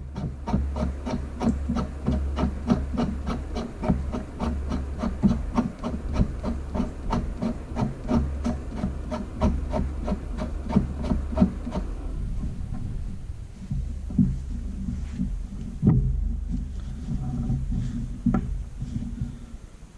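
Ratchet wrench clicking steadily, about three or four clicks a second, as it turns the forcing screw of a ball joint press to push a new upper ball joint into a control arm. About twelve seconds in the clicking slows to scattered clicks, with a couple of sharper knocks near the end.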